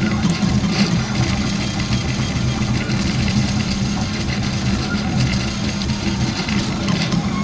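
Stepper motors of a RepRap Prusa Mendel I2 3D printer running during a test print: a steady mechanical buzz with shifting tones as the axes move.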